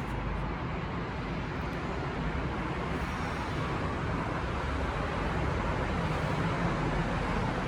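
Steady outdoor background noise, an even hiss over a low rumble like distant road traffic, with no distinct events.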